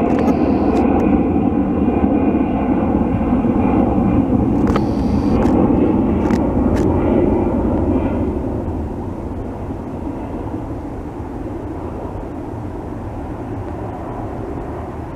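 Airliner on landing approach passing over, a loud steady engine rumble that fades noticeably about halfway through.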